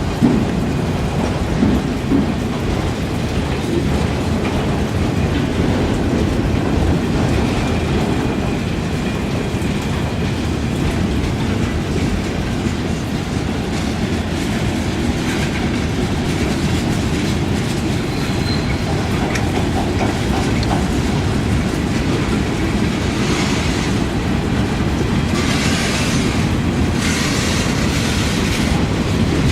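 A train's wheels rolling over rail joints: a steady loud rumble with a few clanks near the start and a faint high squeal, then several short hisses near the end.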